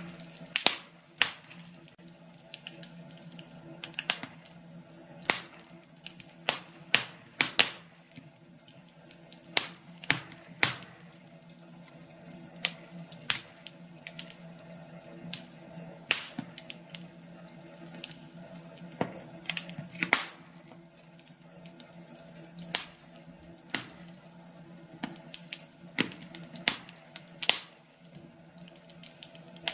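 Wood fire crackling, with irregular sharp pops and snaps from the burning logs, a few each second. A faint steady low hum runs underneath.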